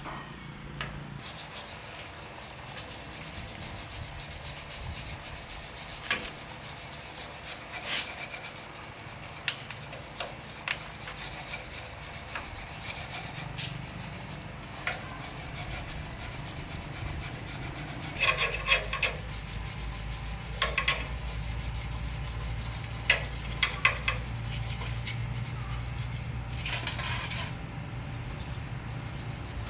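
Steady scraping and rubbing by hand on a surface, with many small ticks and a few sharp, ringing clinks of metal being handled.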